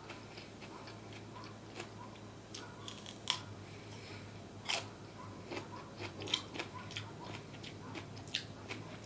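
Close-miked eating: chewing with scattered wet mouth clicks and smacks, and a few louder crunchy snaps about three, five and six seconds in.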